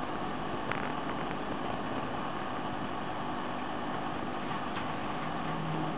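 Steady mechanical hum with hiss, and a faint tap or two.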